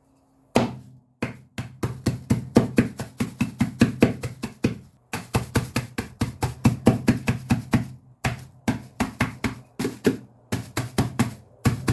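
Biscuits in a tied bag being crushed with rapid repeated blows on a worktop, about five knocks a second, with a few short pauses.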